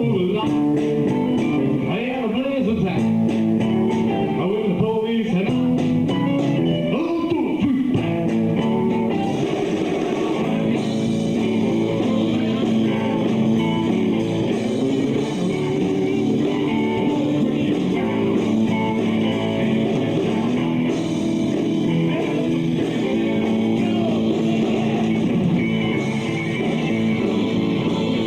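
A live rock band playing a blues-rock number, with electric guitars over bass and drums. There are bending guitar or vocal lines in the first several seconds.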